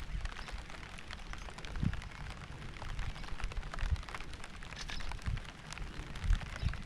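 Rain falling, with many separate drops ticking sharply against a steady hiss, and irregular low thuds underneath.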